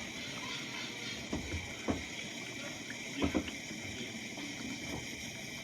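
GE dishwasher running mid-cycle: a steady hiss of water spraying and splashing inside the tub, with a few short knocks about two and three seconds in.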